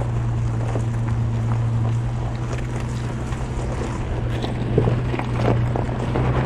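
A 4x4 vehicle's engine running steadily at low revs, with scattered crunches and clicks, the loudest about five seconds in.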